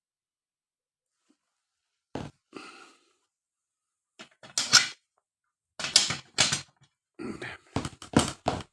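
Someone handling a wood-burning stove: a run of knocks and clatters in irregular clusters, after about two seconds of near silence.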